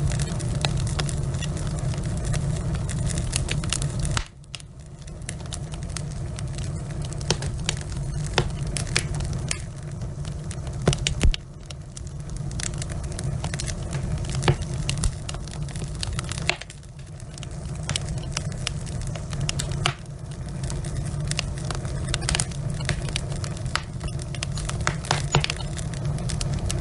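Log fire crackling and popping, with irregular sharp snaps over a steady low rush of flames. A pair of louder pops comes just before the middle. The low rush drops out abruptly a few times and swells back.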